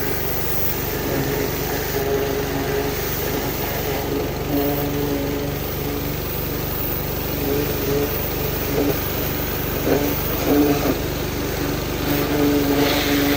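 An engine running steadily at an even speed, with a few louder knocks about ten seconds in and near the end.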